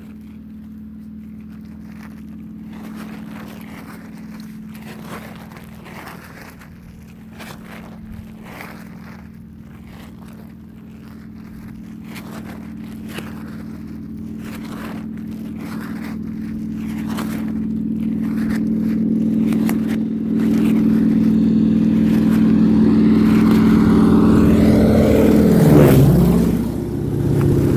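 Light propeller aircraft's engine running steadily and growing louder throughout, with a brief dip and rise in pitch near the end.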